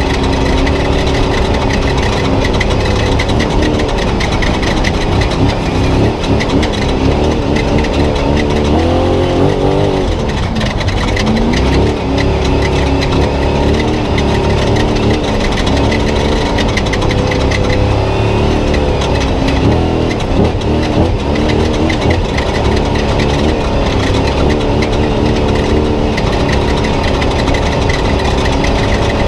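Spec Trophy Truck's V8 engine, heard from inside the cab, running hard with revs rising and falling over and over as it accelerates and lifts, over a constant rushing noise.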